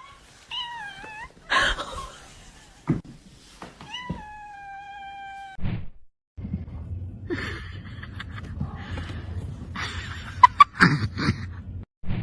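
Domestic cat meowing twice: a short wavering meow about half a second in, then a longer, steady, slightly falling meow about four seconds in. A low steady hum with a few knocks follows.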